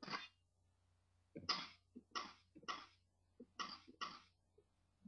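Typewriter keystroke sounds played back by a keyboard-sound program as keys are typed: about six separate clacks at an irregular pace, with fainter ticks between them.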